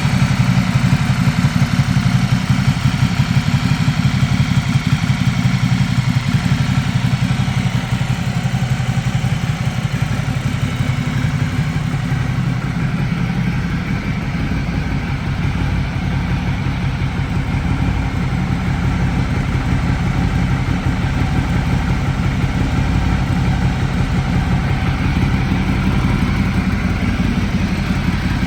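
Ducati Multistrada 1200's 1198 cc L-twin engine idling steadily, a little quieter from about twelve seconds in.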